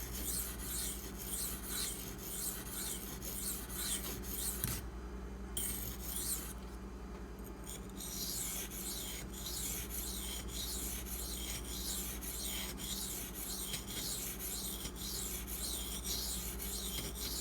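Maxamet knife blade stroked back and forth on a 600-grit Pride waterstone, a rasping scrape at about two to three strokes a second, with two short pauses between about five and eight seconds in. A steady low hum runs underneath.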